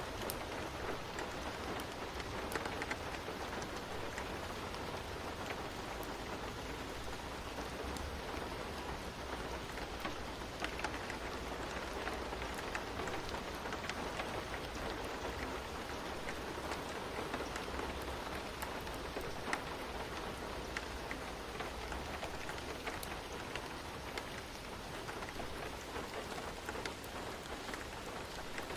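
Steady rain falling, with fine droplet ticks and a low rumble underneath.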